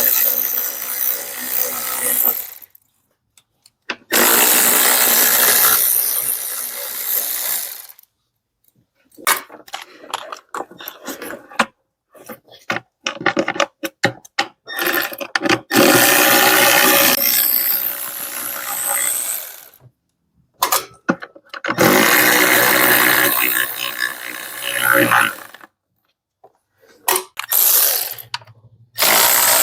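Power tool spinning out the 10 mm bolts of the upper intake manifold, in several runs of a few seconds each that start and stop abruptly, with short clicks and rattles in between.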